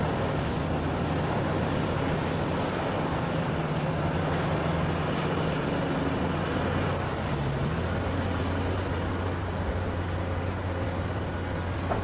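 Large mining excavator's diesel engine running steadily while it works, its low note dropping slightly about seven and a half seconds in.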